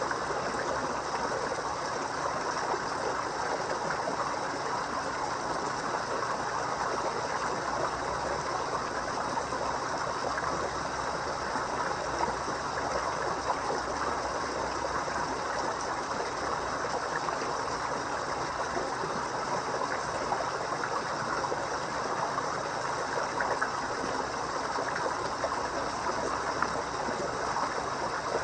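Water trickling and splashing steadily into a koi pond, an even, unbroken rush.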